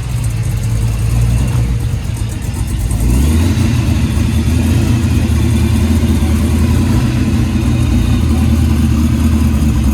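A car engine running steadily, growing louder and fuller about three seconds in.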